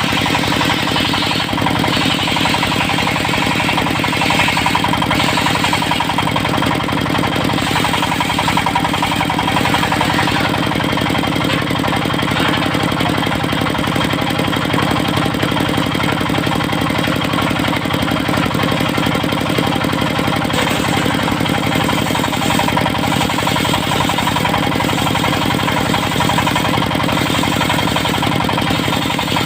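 Engine of a portable circular-saw sawmill running steadily at a constant speed.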